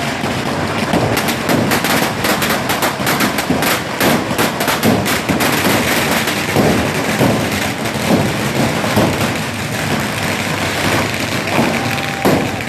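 Firecrackers going off in a rapid, crackling string of sharp bangs, thickest over the first five seconds and then more scattered.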